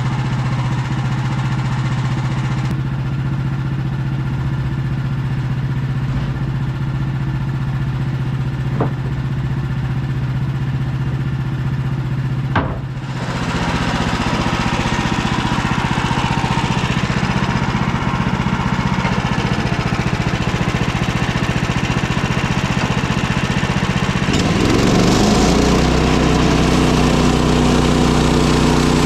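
Woodland Mills HM130MAX sawmill's gasoline engine running steadily, with two brief knocks and then a louder hiss joining it. About twenty-five seconds in, the engine speeds up to a higher pitch.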